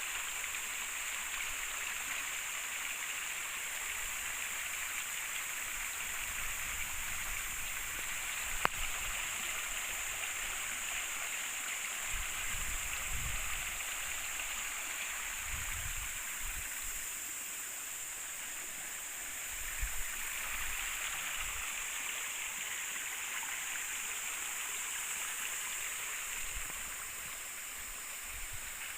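Shallow river water running steadily over stones, an even rushing with some gurgling. A single sharp click comes about nine seconds in, and a few soft low rumbles come midway.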